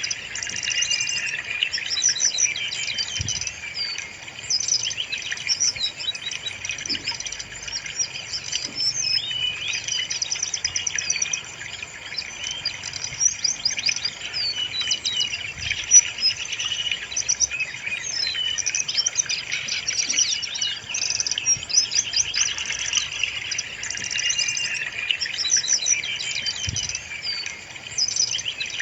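Brown-chested jungle flycatcher singing without a break: overlapping high chattering phrases and whistles.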